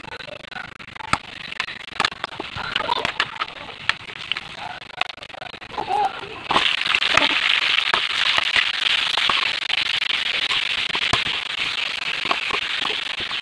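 Chopped onion and garlic frying in hot oil in a pan, crackling with scattered sharp pops. About six and a half seconds in, the sizzle jumps to a much louder, steady hiss that continues.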